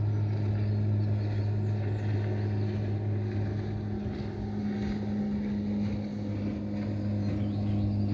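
Motorboat engine running steadily on the water, a constant low hum.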